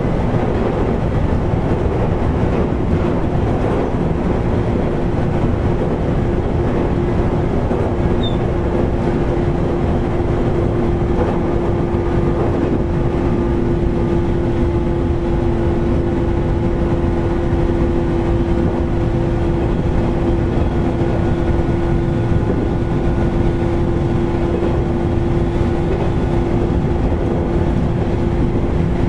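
JR 413 series electric multiple unit running, heard from inside motor car KuMoHa 413-5: a steady rolling noise of wheels and running gear with a hum that holds one pitch, over the car's loud air conditioning.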